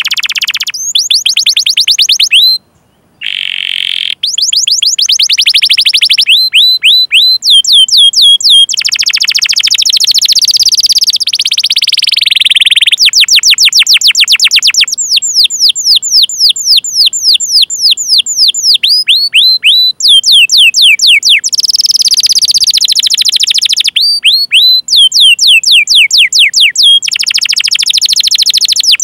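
Canary singing long phrases of rapid, steeply falling high chirps, several a second, broken by buzzier rolled stretches. A brief gap of silence falls about three seconds in.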